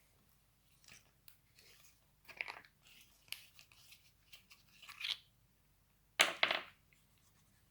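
Small handling and scraping noises of work on a toy model: short scratchy rasps and clicks, the loudest a double rasp about six seconds in.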